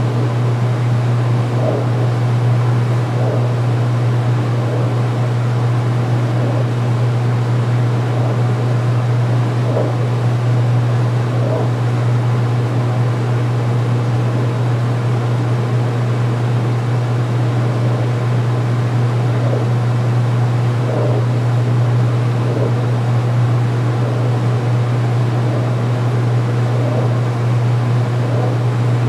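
2016 Speed Queen belt-drive top-load washer in its final spin, the motor and basket running with a steady low hum and a faint whooshing, with no change in speed.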